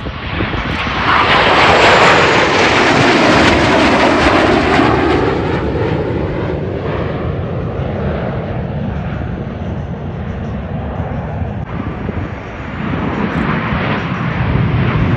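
Blue Angels F/A-18 Super Hornet jets flying past: the jet noise swells within the first two seconds, drops in pitch as it passes and slowly fades, and another pass builds up near the end.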